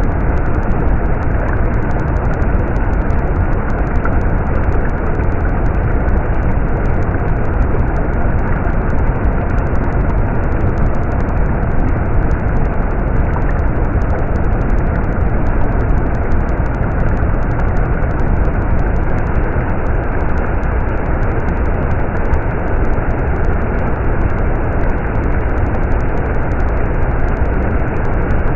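Flowing stream water rushing steadily, a deep, even wash of noise that never lets up.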